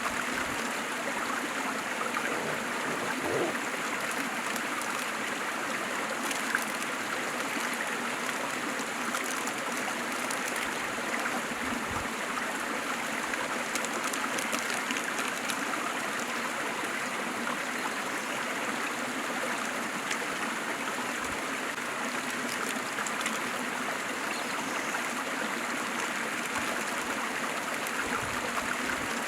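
Waterfall: a steady, unbroken rush of falling and splashing water, mostly hiss-like with little deep rumble.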